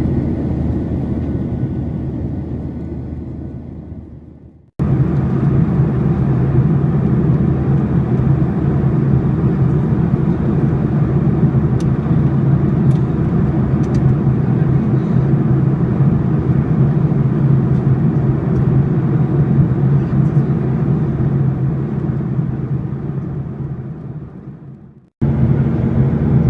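Steady drone in the cabin of a Boeing 737-800 in flight: engine and airflow noise with a low hum. It fades out twice and cuts back in abruptly each time.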